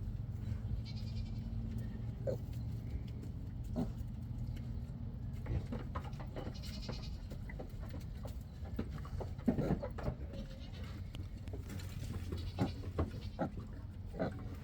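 Farm animals calling: three short high-pitched squeals or bleats about a second in, midway and near the end, over a steady low hum and scattered small knocks.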